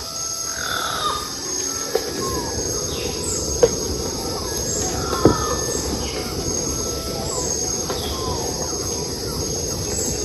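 Insects droning steadily at a high pitch, with a bird repeating short downward-sliding call notes about once a second. Three sharp clicks sound in the first half, the last two the loudest.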